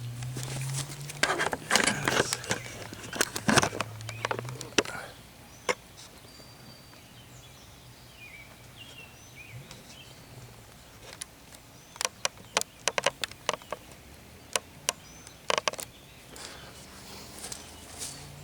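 Knocks, rustling and low handling rumble as a camera is set up on a tripod, then quiet outdoor background with faint bird chirps. Near the end comes a quick run of sharp clicks and taps. No engine is running.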